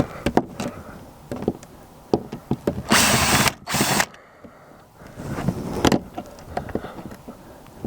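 Cordless drill driver backing a screw out of the wall, in two short bursts about three seconds in, with clicks and knocks of handling around them.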